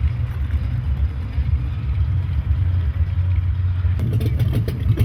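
Vehicle engine running with a low, steady rumble, a little rougher from about four seconds in.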